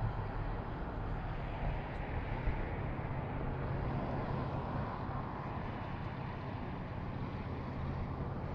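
Motorcycle engine running steadily with a low hum, under a wash of wind noise.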